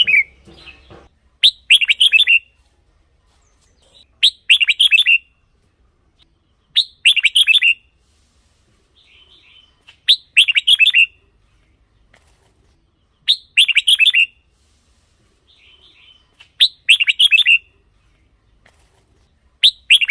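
Red-whiskered bulbul singing: short, bright warbled phrases repeated about every three seconds, with a quieter twitter in some of the pauses.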